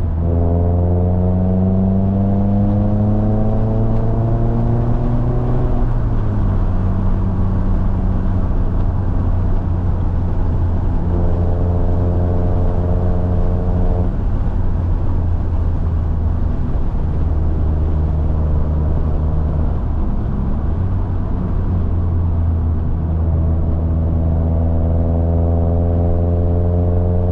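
Mazda MX-5 (ND) 2.0-litre four-cylinder engine pulling a car uphill, its pitch rising under acceleration. It drops at a gear change about six seconds in, holds fairly steady, dips at another shift around twenty seconds in, and climbs again near the end.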